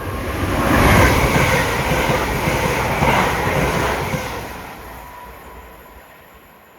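Class 168 Turbostar diesel multiple unit passing through the station: a rush of wheel and engine noise that swells within the first second, holds for about three seconds, then fades away.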